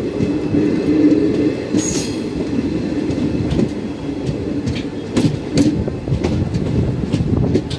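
Train running on the rails: a steady low rumble with irregular sharp clicks of wheels over the rail joints.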